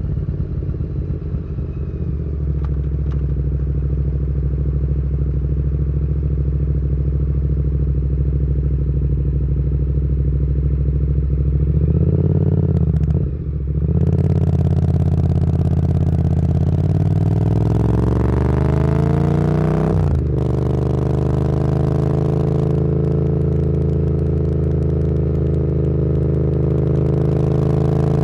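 Motorcycle engine from the rider's point of view, running at a steady low speed at first, then pulling away about halfway through. The revs climb for several seconds until a gear change cuts them off, then it settles into a steady cruise with wind noise on the microphone.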